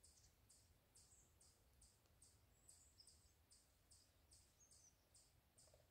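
Faint, high-pitched chirping of small songbirds: a regular run of short chirps, about two or three a second, with a few thin sliding notes among them.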